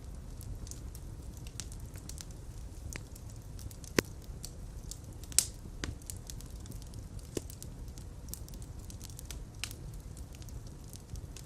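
Fire burning in a fireplace: a steady low rumble of flames with scattered crackles and small pops, two sharper pops standing out near the middle.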